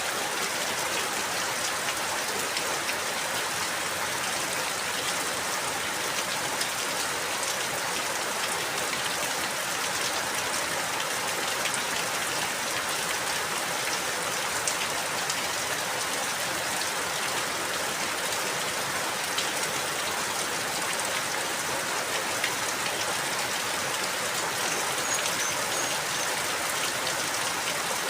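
Steady rainfall, a dense even hiss of drops with fine scattered pattering throughout.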